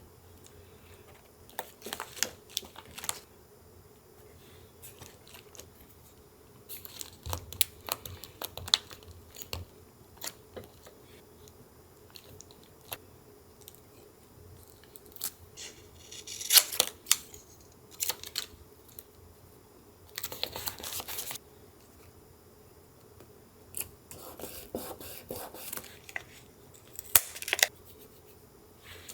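Paper and collage materials being handled up close: scattered crinkles, snips and taps in short bursts, with a longer rustle about twenty seconds in.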